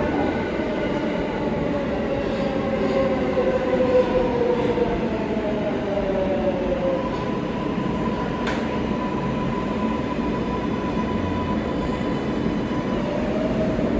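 R143 subway car running along the track: a steady rumble of wheels on rail with whining tones, one sliding down in pitch during the first half and a steady higher whine in the second half.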